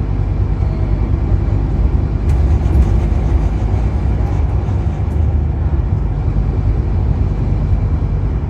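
Scania N230UD double-decker bus under way, its diesel engine a steady low drone, with a few light clicks or rattles about two and five seconds in.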